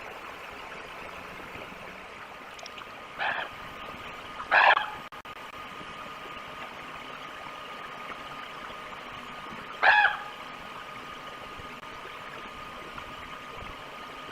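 Three short, pitched animal calls, a fainter one about three seconds in and two louder ones near five and ten seconds in, over a steady outdoor hiss with a thin steady hum.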